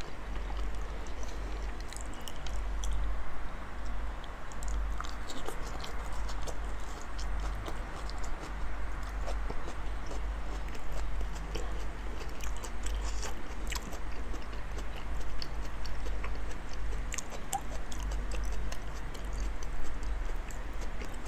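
A person chewing big mouthfuls of raw salmon, with many small wet mouth clicks throughout over a steady low rumble.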